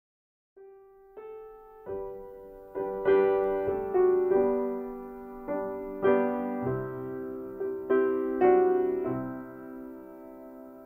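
Slow, gentle solo piano music, starting about half a second in: a few single notes at first, then fuller chords struck every second or so, each ringing and fading away.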